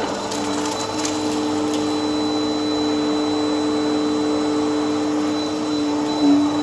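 Vacuum cleaner running steadily with a constant motor whine. There are a few faint crackles in the first two seconds, and a brief louder surge with a drop in pitch near the end.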